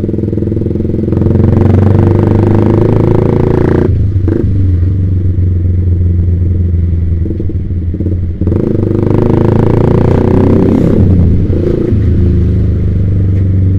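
Yamaha Vixion's single-cylinder four-stroke engine running through an aftermarket Proliner TR1 R exhaust while being ridden. The throttle opens up twice, about a second in and again about halfway, with short drops in between.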